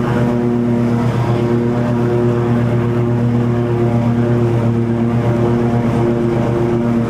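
Toro TimeCutter 50-inch zero-turn mower running steadily at working speed while cutting long grass, its engine holding an even pitch with the deck blades turning.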